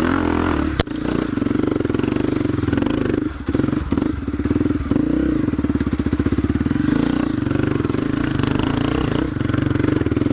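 Trail motorcycle engine running steadily under throttle while riding, with a fast even pulse and a few short drops in the engine note about the middle. A single sharp knock comes about a second in.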